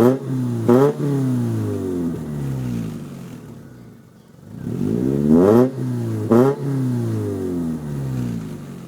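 Mitsubishi Outlander engine free-revved at a standstill through its aftermarket DC Sports exhaust tip. There are two sets of quick throttle blips, one at the start and one about five seconds in, and after each the revs fall slowly back toward idle.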